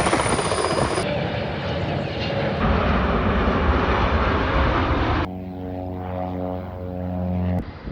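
Airliners arriving, steady rumbling jet noise in several short cuts that change abruptly. Near the end comes a steady droning hum with a clear pitch.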